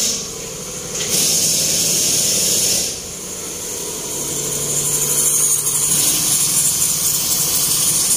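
Replacement engine in a 2009 Toyota Camry running just after its first start, with a loud hiss that swells, drops back and builds up again.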